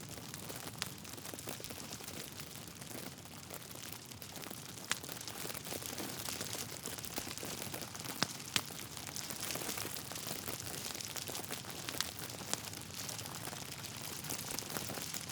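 Wood fire burning in a fireplace: a steady hiss with scattered crackles and sharp pops from the burning logs, a few louder pops standing out.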